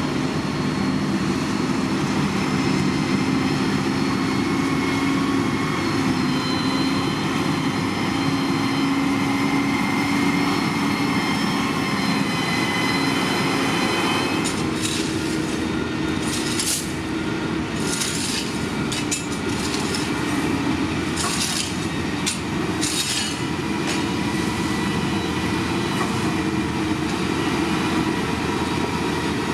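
Diesel engines of heavy earthmoving machinery running steadily, with slowly shifting engine tones. About halfway through, a cluster of short hissing noises sounds over the engine drone.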